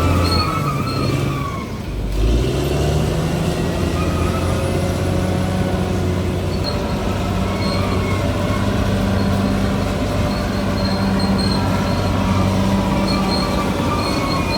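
Bulldozer's diesel engine running steadily under load, dipping briefly and revving back up about two seconds in. Short high squeals recur throughout, typical of steel crawler tracks.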